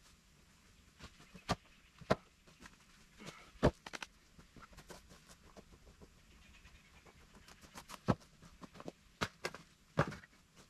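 Scattered, irregular knocks and clicks of cut firewood being handled and tossed during cleanup, with about half a dozen sharper knocks standing out; no saw running.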